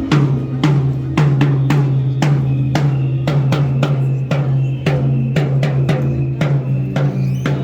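Drums, snare and bass drum, playing a steady beat at about three strikes a second over a low, steady hum.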